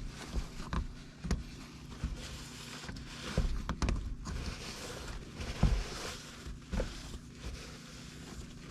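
Light clicks and knocks of the metal parts of an ATV front differential being handled and lifted out of the case, with rustling in between.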